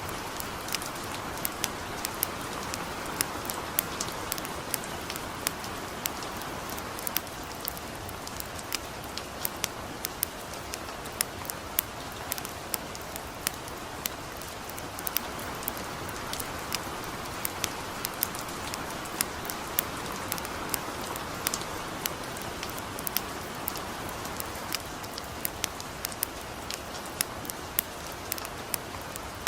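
Light rain falling steadily, an even hiss, mixed with a crackling wood fire whose sharp pops come irregularly, several a second.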